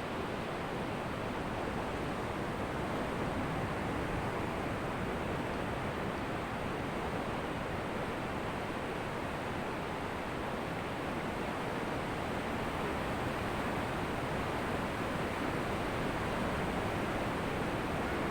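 Ocean surf washing on a beach: a steady rush of waves that swells and eases slowly, without distinct single crashes.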